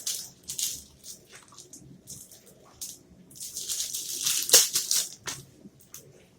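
Close-miked chewing of a caramel triple nut protein bar: crisp crunching about twice a second, with a denser, louder crunch about four to five seconds in.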